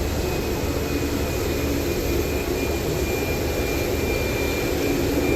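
Jet airliner engines running steadily: an even rumble with a thin high whine held on top.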